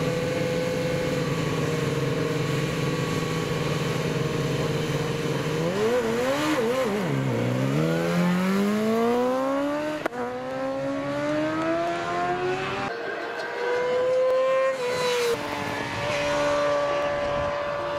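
Superbike racing motorcycle engine held at steady high revs on the start line. It then launches: the revs dip as the clutch bites about seven seconds in, then climb in rising sweeps broken by two upshifts, and settle to a steadier note near the end.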